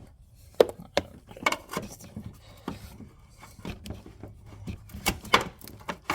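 Hands working a hood latch release cable and nearby parts: irregular sharp clicks and knocks with light scraping between them.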